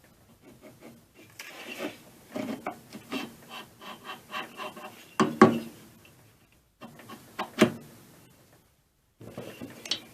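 Air compressor cylinder head being worked loose and lifted off by hand: irregular scraping and rubbing of metal parts, with a louder knock about five seconds in and another about two seconds later.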